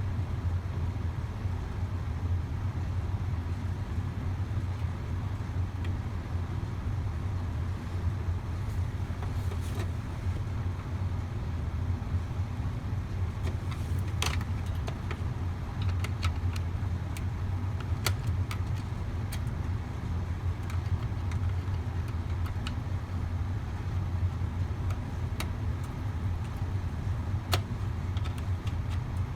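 A furnace motor running with a steady low hum, with scattered small clicks and taps over it.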